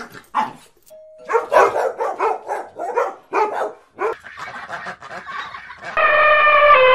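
A rapid run of short animal calls, about two or three a second, then, about six seconds in, an elephant's loud, steady trumpeting call.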